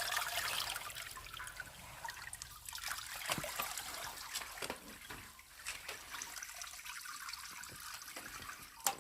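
Malt water (yeotgireum-mul) trickling and splashing into a container as it is squeezed and strained, with many small irregular splashes, loudest at the start and easing off. A sharp knock comes just before the end.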